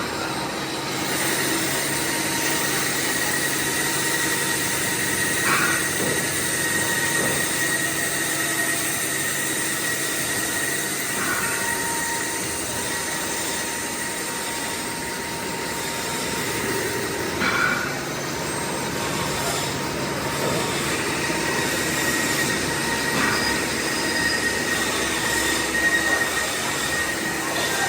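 Workshop machinery running steadily, with a faint high whine and a short knock about every six seconds.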